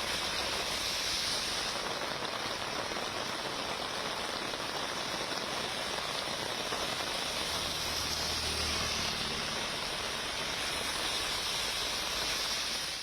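Steady heavy rain falling, an even hiss, with a vehicle engine rumbling faintly about eight seconds in.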